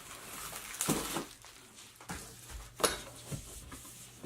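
Cardboard and plastic packaging being handled during an unboxing: rustling with several sharp knocks, the loudest about three seconds in.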